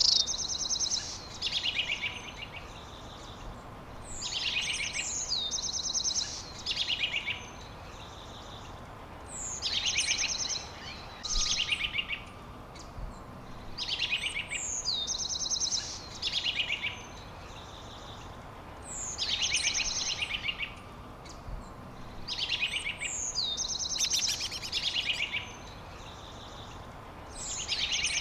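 A songbird repeating the same short song over and over, about every four to five seconds: a quick downward-sliding whistle followed by a fast trill. A steady hiss of background noise runs underneath.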